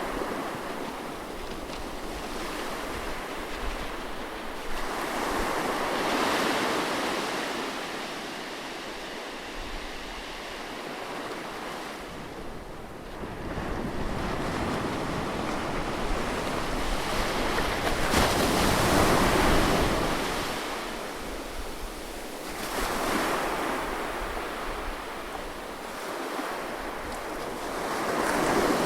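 Ocean waves breaking on a beach: a continuous wash of surf that swells and ebbs as each wave comes in, the biggest about two-thirds of the way through, with some wind on the microphone.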